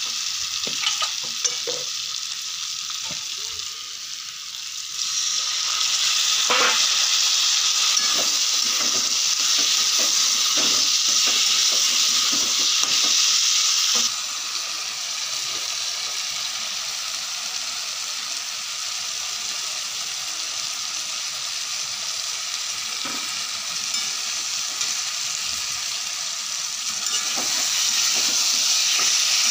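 Pointed gourd and potato pieces sizzling in oil and spice paste in a kadai while a spatula stirs and scrapes them: the masala being fried down (kosha) before water goes in. The sizzle jumps louder about five seconds in, drops back sharply at about fourteen seconds, and rises again near the end, with frequent short scrapes of the spatula on the pan.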